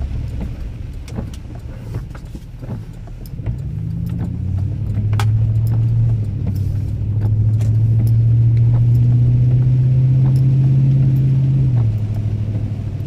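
Car driving, heard from inside the cabin: steady road rumble, with the engine note rising about three and a half seconds in as the car speeds up, holding steady, then easing off near the end.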